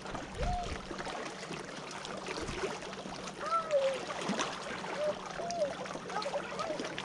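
Lakeshore ambience: a steady faint wash of water, with several short, separate rising-and-falling calls in the distance.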